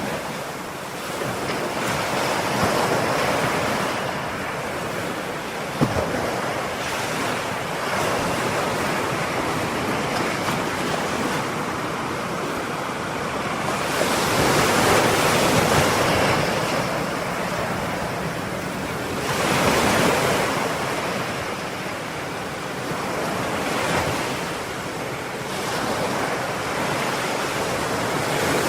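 Ocean surf: a continuous rush of waves breaking and washing in, swelling louder every several seconds as bigger waves break, with one brief tick about six seconds in.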